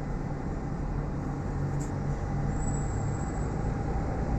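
Steady low rumble of distant road traffic, with a brief click a little under two seconds in.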